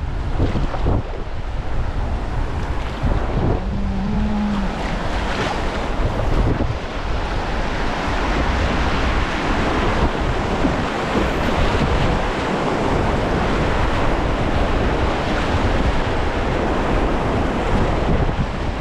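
River water rushing and splashing around a kayak on a whitewater run, with wind buffeting the microphone in a continuous low rumble. The water hiss grows fuller and steadier after about seven seconds.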